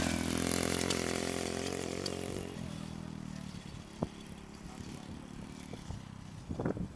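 125cc pit bike engine running at steady revs, fading gradually as the bike moves away.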